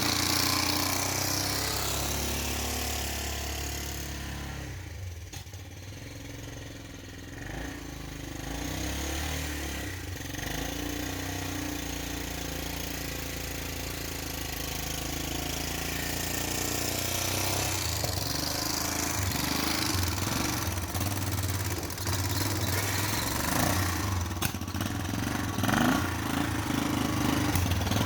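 Four-wheeler (ATV) engine running while working through deep snow. It eases off for a few seconds early on, then runs harder, with a rougher, choppier note toward the end.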